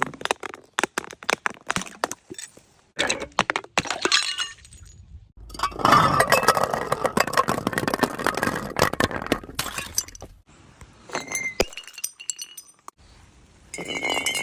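Glass bottles breaking in a series of sharp cracks and crashes, with one long stretch of shattering in the middle, and glass shards clinking and ringing between the breaks.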